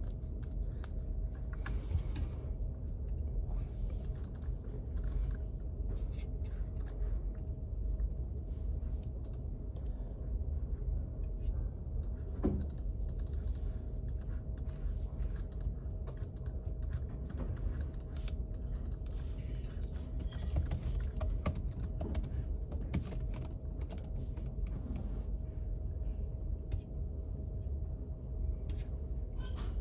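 Typing on a computer keyboard: irregular light key clicks throughout, over a steady low hum with a faint steady tone.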